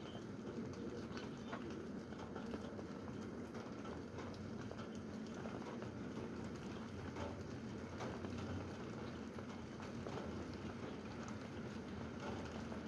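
Steady rain falling, a continuous patter with many scattered drips and taps.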